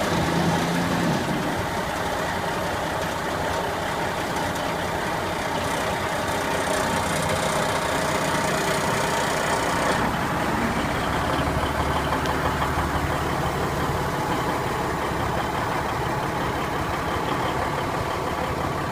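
Diesel engine of a 1971 AM General dump truck idling steadily.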